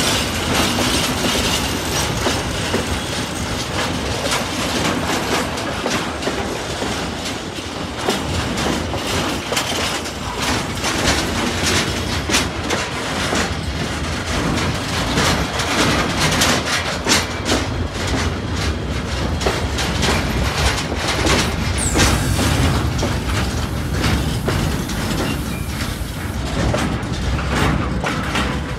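Train passing close by, its wheels clattering over the rail joints in a long, steady run of clicks. About three-quarters of the way through, a short high wheel squeal falls in pitch.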